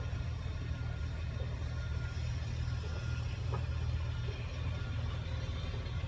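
CAT 323 excavator's diesel engine idling steadily, a low even rumble.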